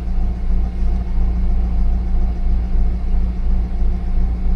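Recovery truck engine idling with a steady low hum that swells and fades evenly.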